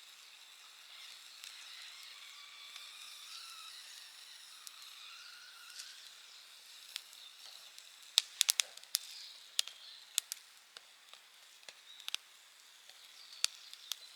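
Wood fire hissing with thin wavering whistles in the first half, then crackling with sharp pops. There is a quick cluster of loud snaps about eight seconds in and scattered pops after.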